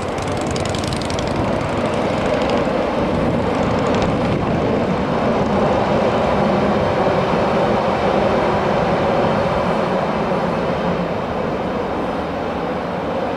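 Train running across a steel truss railway bridge: a steady, loud rumbling drone that swells slightly midway.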